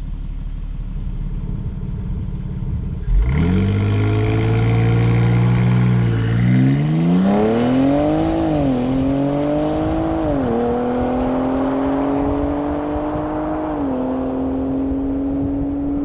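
BMW X3 M Competition's S58 3.0-litre twin-turbo inline-six under a full-throttle launch. It runs low and steady at first, then jumps sharply about three seconds in and climbs in pitch through the gears. The revs drop with each of three quick upshifts of the eight-speed automatic in the second half.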